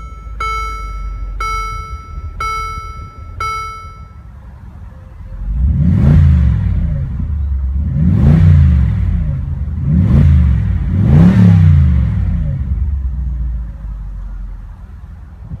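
Mercedes-Benz G550's 5.5-litre V8 idling just after start-up while a dashboard warning chime repeats about once a second; the chime stops about four seconds in. The engine is then revved four times, each blip rising and falling in pitch.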